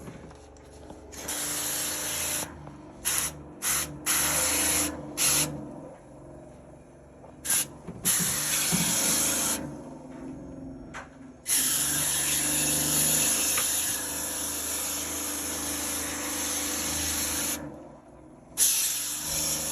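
Cleaning spray hissing onto the fins of a clogged HVAC fan-coil coil. It comes in short on-off bursts for the first ten seconds or so, then in long steady runs with a brief pause near the end.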